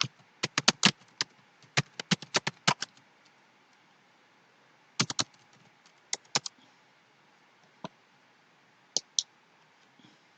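Typing on a computer keyboard: a quick run of key clicks for about three seconds, then a pause and a few short clusters of keystrokes.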